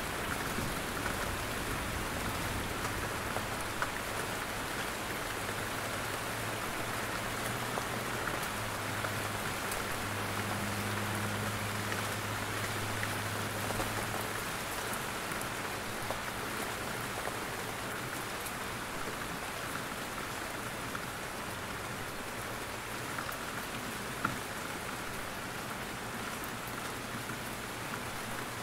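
Steady rain falling through forest trees: a dense, even patter with individual drops ticking now and then. A faint low hum sits underneath in the first half.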